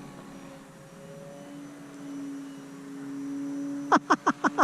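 Electric motor and propeller of an FMS 1800 mm Cessna 152 RC plane in flight, a steady droning tone that swells a little about two seconds in. Near the end a man breaks into a quick run of laughter.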